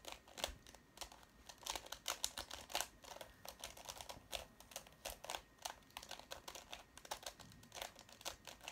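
Square-1 puzzle being turned quickly: irregular plastic clicks and clacks of its layers twisting and slicing, several a second, as the solver works through a parity case.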